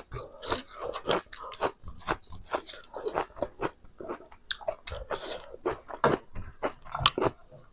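Close-miked chewing and biting of Naga-style pork, a quick irregular run of crunches and wet mouth clicks.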